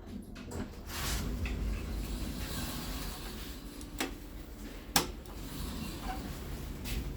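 KleeMann passenger elevator in operation: a steady mechanical rubbing sound from its machinery, broken by two sharp clicks, the louder about five seconds in.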